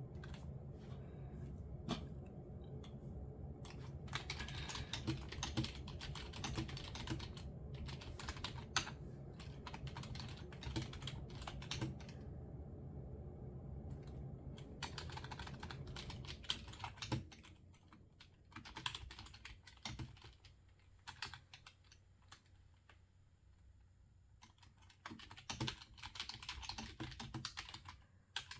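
Typing on a computer keyboard in bursts of quick keystrokes, with short pauses between runs. A low steady hum lies underneath and drops away a little past halfway.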